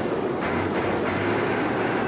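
Steady low mechanical rumble at an even level.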